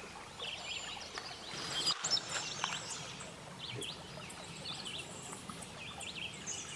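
Wild birds chirping and singing, many short high calls one after another, over faint outdoor background noise.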